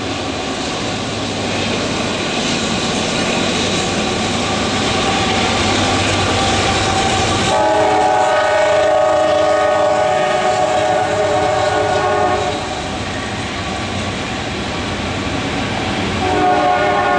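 Diesel-hauled coal train passing: rumble and rolling wheel noise, then the locomotive's air horn sounds a long chord of several notes about halfway through, and sounds again near the end as the loaded coal hoppers roll by.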